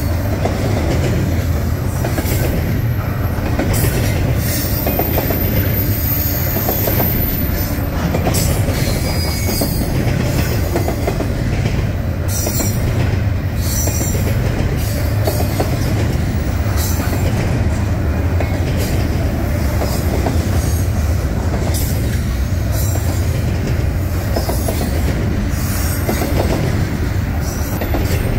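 Double-stack intermodal well cars of a freight train rolling past: a steady rumble of steel wheels on rail with irregular clicks over the rail joints. A thin high squeal rises for a few seconds about five seconds in.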